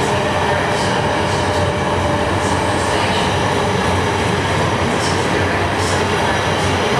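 ICRm intercity passenger coaches rolling past along the platform of an underground station: a steady, loud rumble of wheels on rail. Brief high hisses come now and then.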